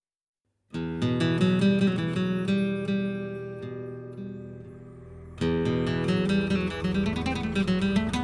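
Background music on acoustic guitar, strummed chords starting just under a second in, fading, then struck again about five and a half seconds in.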